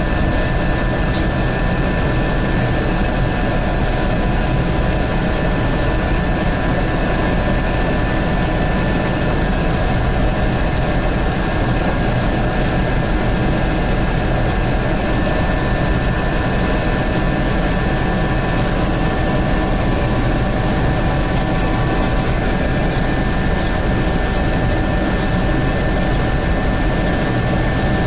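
Helicopter in flight: a steady, loud din of engine and rotor with a few high, steady whining tones over it.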